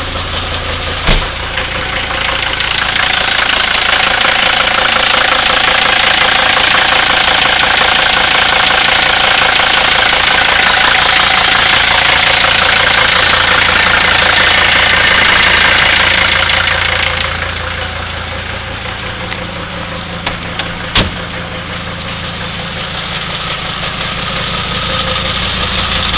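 1975 Mercedes-Benz 300D's five-cylinder diesel idling with its clatter just after a cold start at 20 °F. It grows louder with a hiss from a couple of seconds in and settles back after about fifteen seconds; two sharp clicks, one about a second in and one about twenty-one seconds in.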